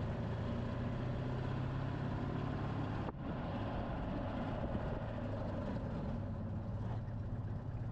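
Small Citroën car's engine running steadily as it drives along a street, with road noise; the sound briefly drops about three seconds in.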